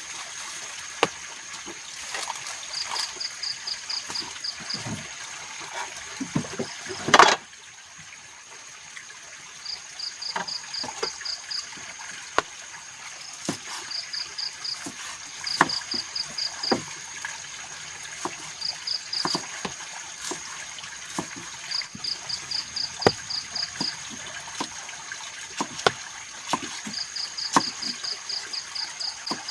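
Forest ambience: a steady high insect drone, with short rapid chirping trills repeating every few seconds, over scattered clicks and knocks of camp handling. One louder crash about seven seconds in.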